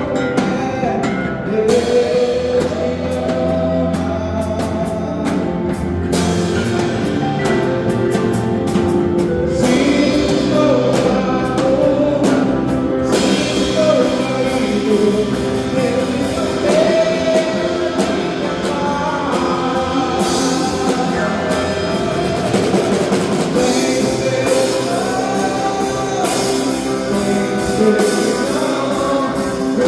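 Worship band playing a gospel song live: singing over guitar and a drum kit, with the cymbals coming up about halfway through.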